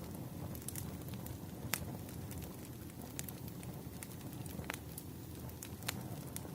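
Bonfire burning with a low steady roar of flames and scattered sharp crackles and pops of the wood, a louder pop about two seconds in and another near the end.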